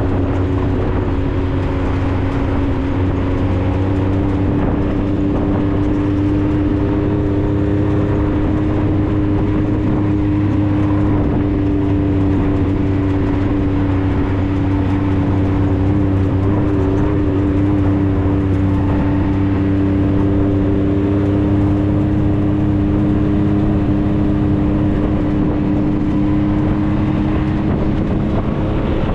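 A 4x4's engine running at a steady, even pace while driving, with a constant drone that barely changes pitch.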